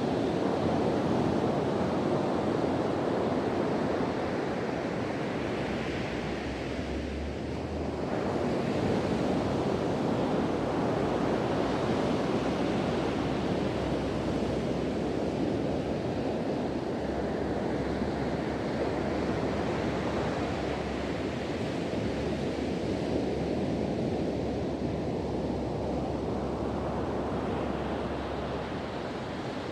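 Sea surf washing onto a beach, a continuous rush of breaking waves that swells and eases slowly, with wind rumbling on the microphone.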